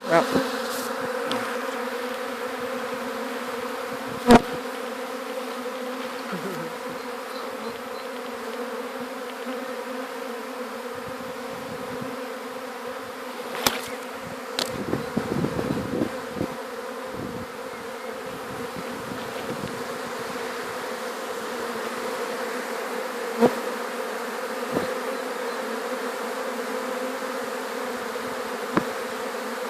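Honeybee swarm buzzing: a steady, dense hum of many bees in flight. A few sharp knocks and some handling noise break in now and then.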